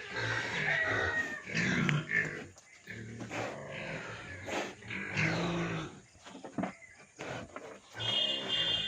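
Pigs grunting and squealing in irregular, overlapping calls, with short pauses between them.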